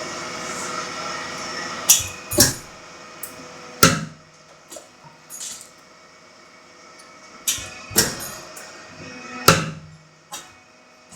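60-ton hydraulic punch press running with a steady hum, with about six sharp metallic bangs, some in close pairs, as it punches and shears steel. The hum drops lower about four seconds in.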